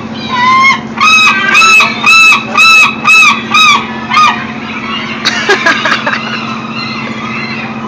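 A gull calling loudly, a run of about eight arched, yelping calls at roughly two a second, followed about five seconds in by a brief burst of sharper squawks.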